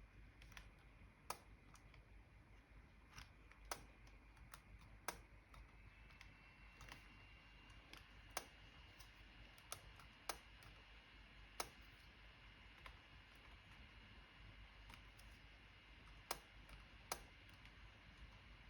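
Keys on a newly fitted Dell Latitude E7440 laptop keyboard pressed one at a time, single sharp clicks at irregular intervals of about a second, as the keys are tested; one key, the page down, is sticking.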